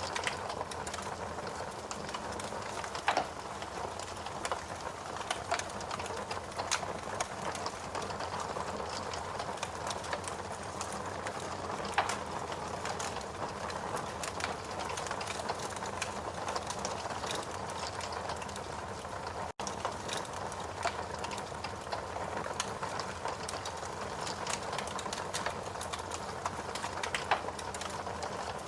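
Steady rain hiss mixed with a wood fire crackling, with scattered sharp pops, the loudest about three seconds in, about twelve seconds in and near the end. The sound cuts out for an instant about twenty seconds in.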